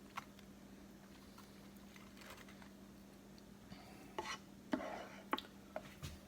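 A few light clinks and scrapes of a utensil against a pot and pan as thick chocolate pudding is poured out, mostly in the second half, over a steady low hum.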